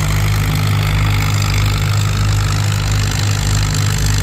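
Antique Farmall M tractor's engine running steadily under load as it pulls the weight sled down the track.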